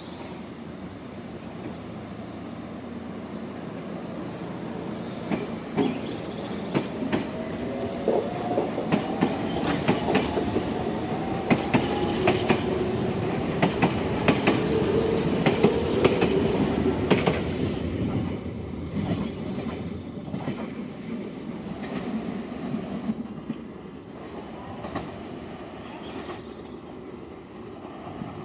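Semboku Rapid Railway 7000 series electric train running along the platform, its wheels clacking over the rail joints, with a motor whine above the running noise. It grows louder toward the middle and then fades.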